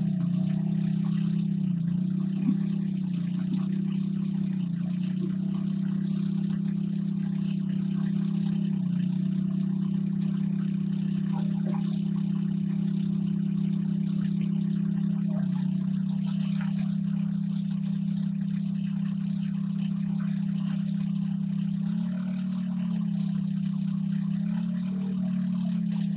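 A small engine running steadily at an even speed, a continuous low hum that wavers slightly in pitch, its tone thinning a little about halfway through.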